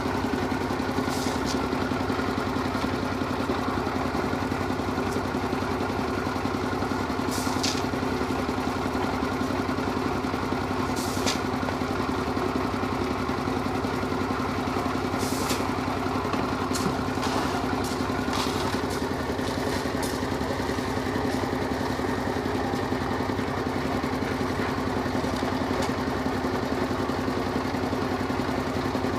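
Engine of construction machinery running steadily at constant speed, with a few short clinks and scrapes over it.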